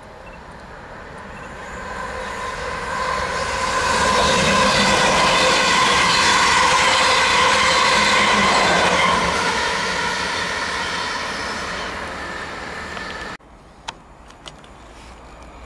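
Siemens Desiro electric multiple unit passing: wheel-on-rail noise with a steady whine over it builds up, is loudest around the middle, then fades away, and cuts off suddenly near the end.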